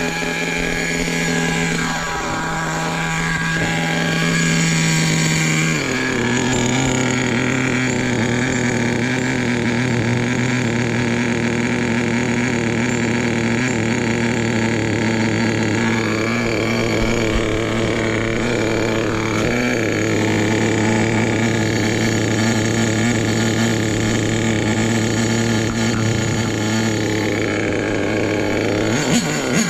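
Nitro RC truck engine running fast and steady, its pitch stepping down about six seconds in and then holding. The owner calls it extremely too lean.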